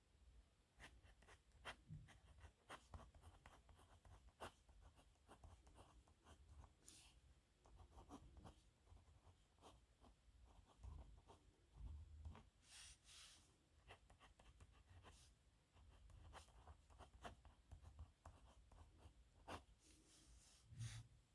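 Pen writing on paper: faint scratches and ticks of pen strokes, with a few longer scratchy strokes about a third of the way in, past the middle, and near the end.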